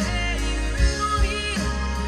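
A pop song with a sung vocal and a heavy bass line, played on a car audio system.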